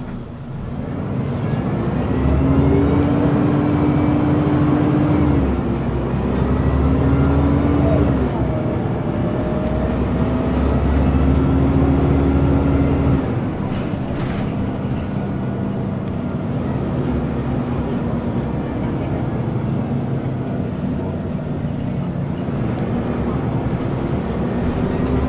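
Scania L94UB city bus engine pulling away, its note rising and then dropping as the ZF automatic gearbox shifts up about five and eight seconds in. After about thirteen seconds it eases to a lower, steadier run, and it climbs again near the end.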